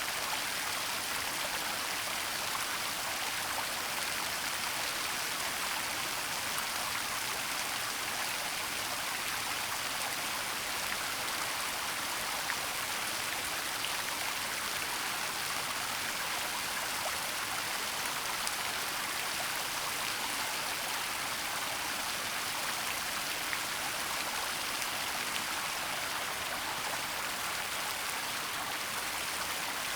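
A waterfall's falling water makes a steady, unbroken rushing hiss that is weighted toward the high end, with a few faint ticks scattered through it.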